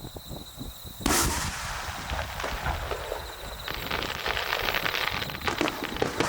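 Aerial fireworks: a shell bursts with a sharp bang about a second in, then a continuous crackle of many small bursts that grows denser partway through.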